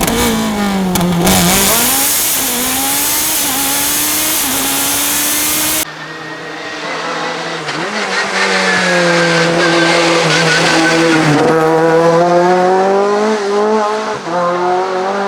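Racing car engines at full throttle on a hillclimb, the pitch climbing and dropping with each gear change. About six seconds in the sound cuts to another car, whose engine pitch rises steadily and then drops with an upshift.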